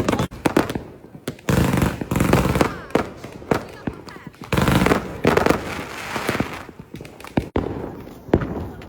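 Consumer fireworks going off in several loud clusters of bangs and crackling: at the start, about a second and a half in, and again about halfway through, with single sharp cracks in between.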